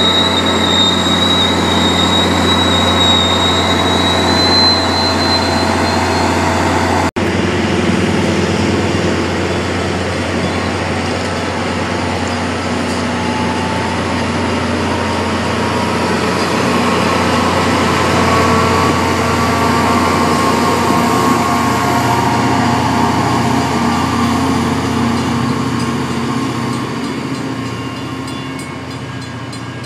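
MBTA commuter rail coaches passing close by: a steady rumble of wheels on the rails, with a high wheel squeal in the first six seconds or so. The sound eases off over the last few seconds.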